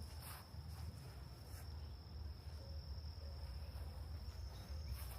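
Insects trilling in one steady, high, unbroken tone, with a couple of faint footsteps on the trail.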